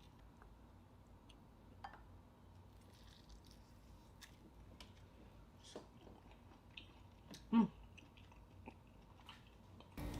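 Faint close-up chewing and mouth sounds from someone eating seafood, with scattered small smacks and clicks. About seven and a half seconds in comes a short, louder voiced "mm".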